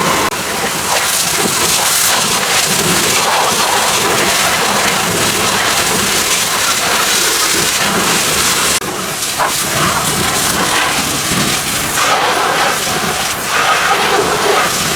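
Pressure washer spray of water hitting a car body, a steady loud hiss that drops back for a moment about nine seconds in.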